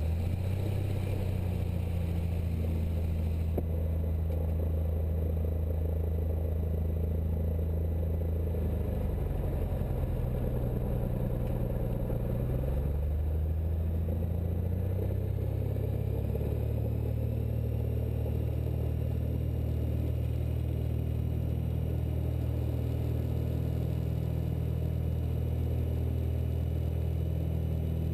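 Cessna 172's piston engine and propeller at full takeoff power, heard from inside the cabin as a steady low drone. Its pitch shifts about ten to sixteen seconds in, with a faint higher whine rising alongside it.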